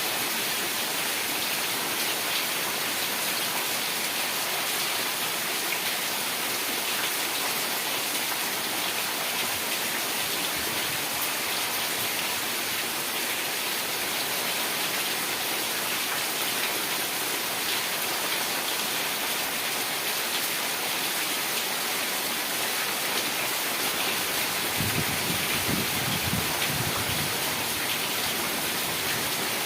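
Heavy rain falling steadily, an even dense hiss of drops on surfaces. About 25 seconds in there is a brief low rumble.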